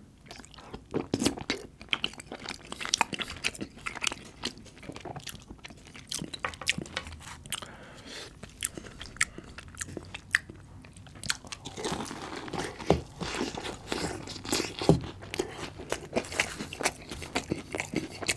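Close-miked eating: chewing a forkful of butter chicken in sauce, then biting and crunching into a fried samosa, with many short wet clicks and crackles from the mouth.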